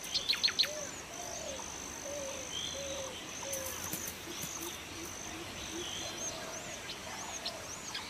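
Outdoor ambience of birds calling: repeated short, high arched chirps over a thin steady high whine, a few sharp calls at the start, and a run of lower repeated calls through the middle.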